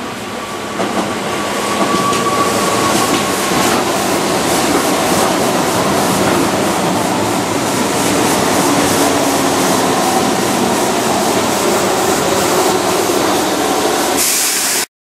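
Keihan 2600-series electric commuter train running past on curved track: a steady rumble of wheels and running gear with faint regular rail-joint clicks, and a thin squealing tone for the first few seconds. A hiss rises near the end before the sound cuts off abruptly.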